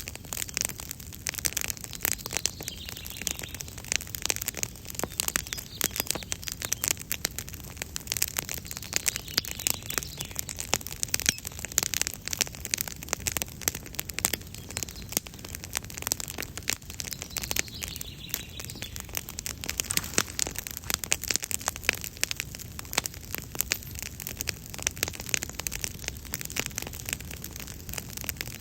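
Wood campfire crackling: a continuous run of dense, irregular snaps and pops.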